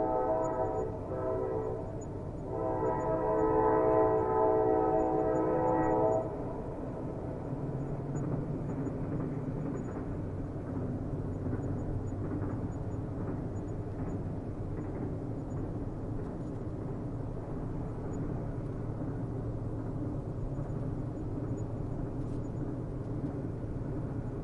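Train horn sounding a chord in two blasts, the second, longer one stopping abruptly about six seconds in, followed by the steady low rumble of a train running on the rails.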